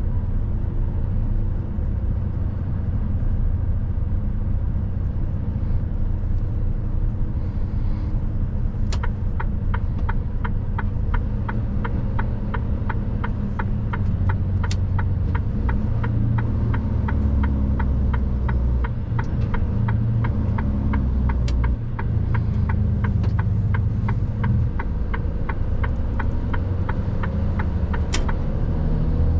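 Mercedes truck's diesel engine running under the cab, a steady low rumble whose revs shift in the middle. From about nine seconds in, a regular ticking, a little over two ticks a second, runs for nearly twenty seconds, typical of the turn-signal indicator.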